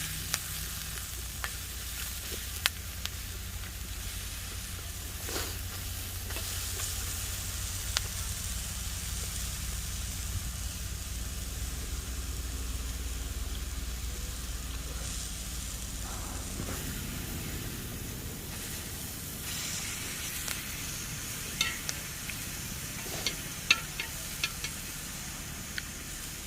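Food frying on a hot griddle, a steady sizzle broken by a few sharp clicks.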